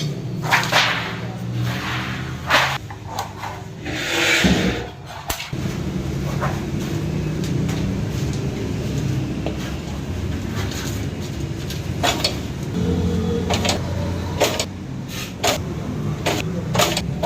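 Workshop metalwork: irregular sharp knocks and taps over a steady low rumble, with a brief hiss about four seconds in.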